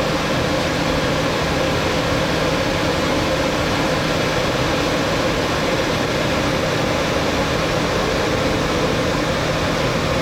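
Steady noise of a Boeing 737 MAX 8 airliner with its CFM LEAP-1B jet engines running, an even rushing sound with a faint low hum underneath.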